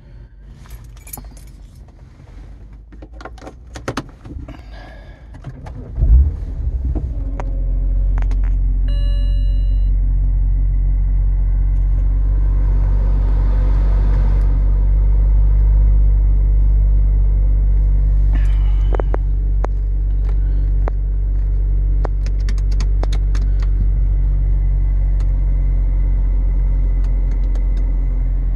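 BMW E90 3 Series engine starting with a low thump about six seconds in, then idling with a steady low rumble. Before it come small clicks and rattles of handling, and shortly after the start a brief electronic chime sounds.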